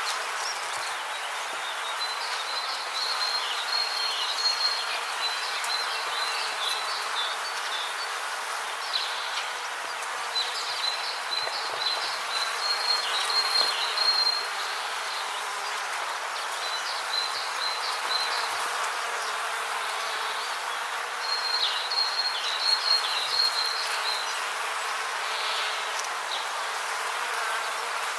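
Rainforest ambience: a steady hiss with bouts of high, rapid chirping calls lasting a few seconds each, coming and going several times.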